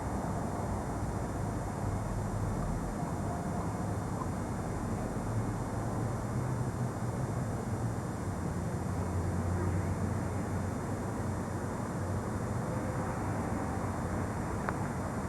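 City street traffic: a steady wash of car and scooter engines passing, their low hum rising and falling as vehicles go by.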